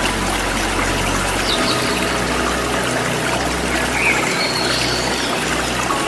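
Waterfall rushing steadily, with a few brief bird chirps about a second and a half in and again around four seconds in.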